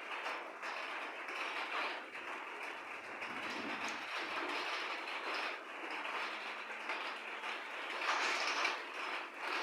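Steady rain falling, a dense even hiss that swells louder about eight seconds in, with a faint low rumble a few seconds in.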